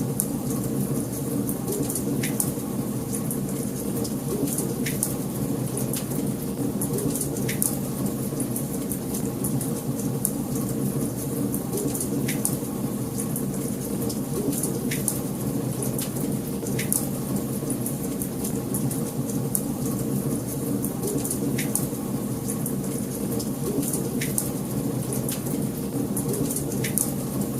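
Wood fire in a fireplace burning with a steady low rush of flame and constant fine crackling. A sharper pop stands out every two to three seconds.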